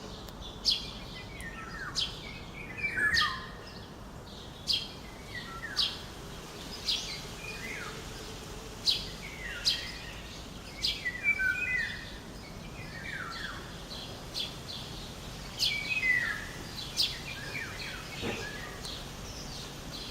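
Several songbirds singing together: short high chirps and descending whistled phrases, repeating every second or so, over a steady low background noise.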